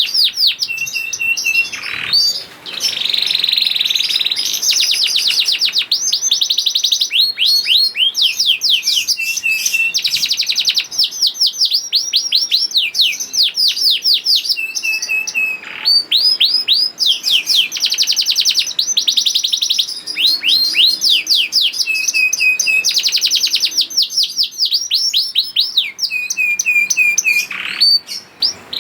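Young domestic canary singing continuously in fast, high trills of rapid sweeping notes, mixed with short runs of steadier held notes. The song breaks off briefly about two seconds in, again midway and again near the end.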